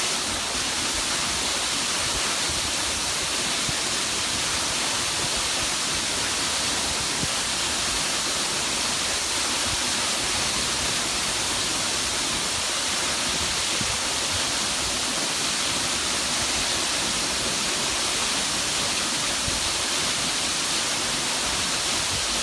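Minoo Falls, a waterfall, pouring steadily: a constant, even rush of falling water.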